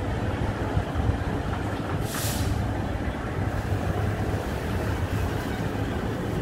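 Steady low rumble of a diesel-hauled train of old blue passenger carriages rolling slowly, heard at an open carriage window, with a short hiss of air about two seconds in.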